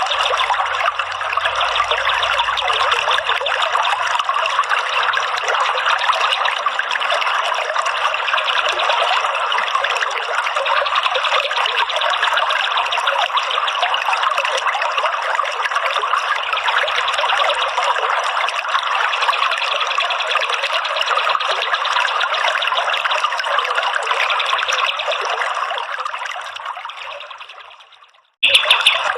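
Steady trickling, running water, as used in bird therapy tracks, fading out near the end. Just before the end a louder, different sound cuts in.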